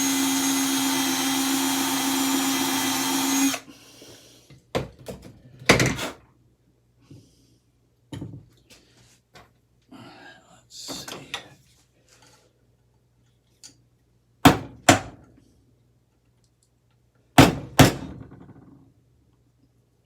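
Electric drill running at a steady pitch, drilling out a screw in an aluminium part with a bit he suspects is a wood bit rather than a metal one; it stops about three and a half seconds in. Then a scatter of short knocks and clunks of tools and parts being handled, the loudest coming as two close pairs in the second half.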